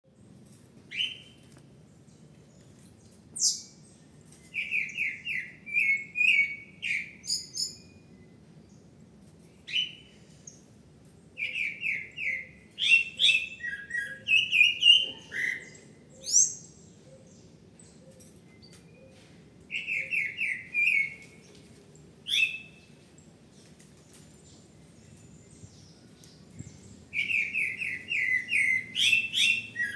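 A songbird singing in short phrases of quick, repeated chirping notes, with pauses of a few seconds between phrases.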